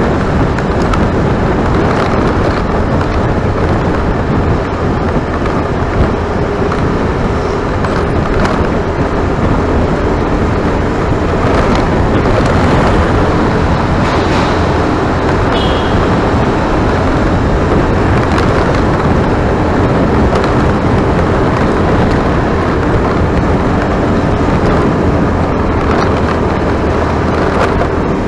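Steady running noise of a motor vehicle, engine and road noise mixed, with no change in pace.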